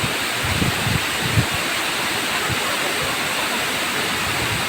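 Waterfall rushing steadily, an even dense roar of falling water. A few brief low thumps come in the first second and a half.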